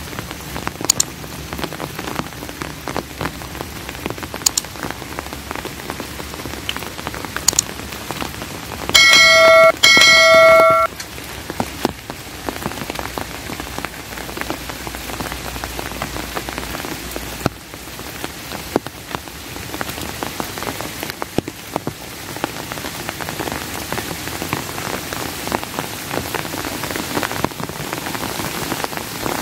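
Steady rain falling, with sharp individual drops striking close by. About nine seconds in, a bell rings twice, two loud ringing strokes about a second apart.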